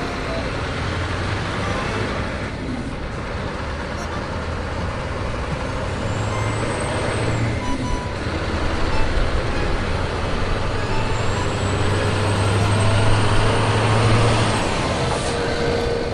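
A heavy vehicle's engine running, swelling louder about six seconds in and again for a few seconds near the end, with a faint high whine rising and falling as it swells.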